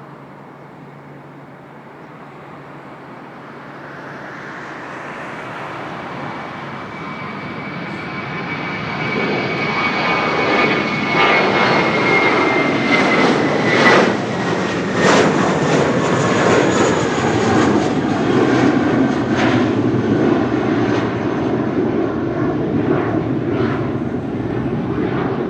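Jet airliner's engines growing steadily louder as it passes close by. A high whine slowly falls in pitch, then gives way to a loud, steady roar crackling with short sharp pops.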